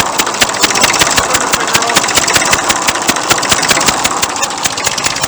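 1959 Fordson Dexta's three-cylinder diesel idling, a sharp regular pulse with each firing stroke. The blowing comes from compression leaking past the centre injector's copper washer, which the owner had taken for a blow on the exhaust manifold.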